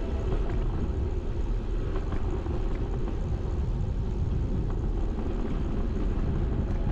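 Steady low rumble of wind and road noise picked up by a bike-mounted action camera while cycling, with a few faint ticks.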